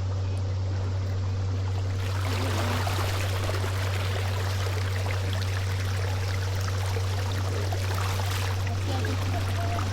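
Water splashing and trickling, stronger from about two seconds in, over a steady low hum.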